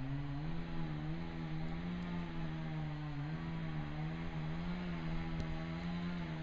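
An engine running steadily at a constant speed, its pitch wavering slightly.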